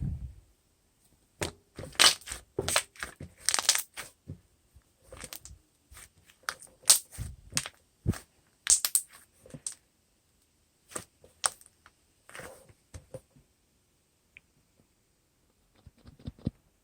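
Irregular clicks and crackles, coming in quick clusters separated by short quiet gaps.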